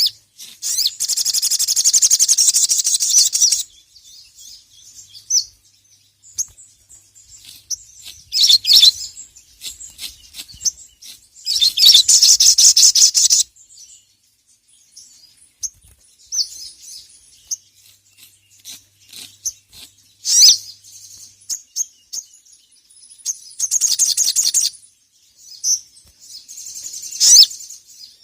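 Sogon (sogok ontong sunbird) singing in high, fast chattering trills. Three bouts of about two to three seconds each, one near the start, one in the middle and one near the end, with short sharp chirps between them.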